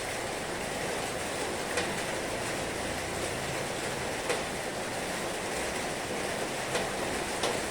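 Heavy rain falling steadily as a dense, even hiss, with a few sharp ticks standing out.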